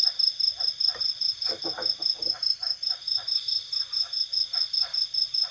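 A cricket chirping in an even rhythm, about five high pulses a second, over a steady high insect drone, with faint scattered knocks underneath.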